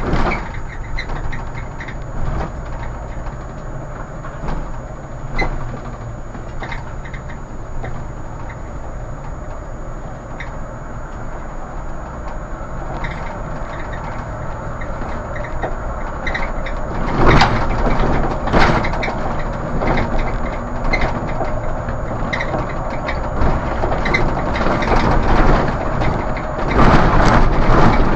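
A motor vehicle on the road: steady engine and road rumble with scattered small knocks, and louder rushes of noise about two-thirds of the way in and again near the end.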